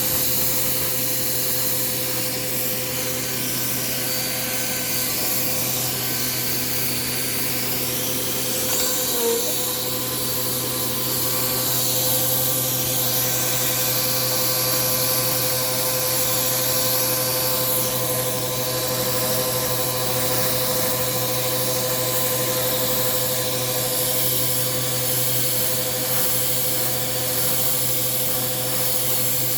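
Bissell PowerForce Compact vacuum cleaner running steadily, its motor holding one even hum under a rushing hiss of air, with a brief change in tone about nine seconds in.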